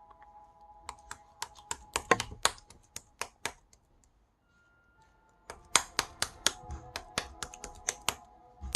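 A run of sharp, irregular clicks and taps, a few to several a second, that stops for about two seconds in the middle and then starts again.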